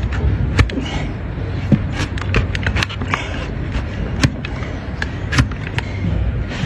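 Donkey hoof being trimmed: a hoof knife or nippers cutting and scraping the horn, with sharp cracks at irregular intervals over a steady low rumble.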